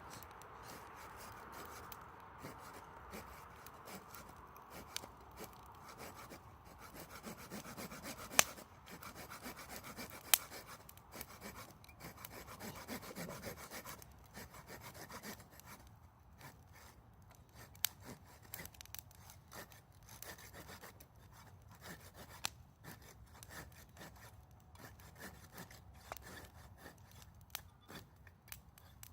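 Wood fire burning, crackling with irregular sharp clicks and a hiss, and two loud pops about eight and ten seconds in.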